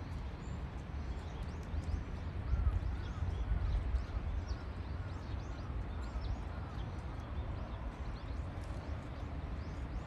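Birds calling at a lake: many short high chirps scattered throughout, and a run of about eight short, evenly spaced calls in the middle, over a steady low rumble.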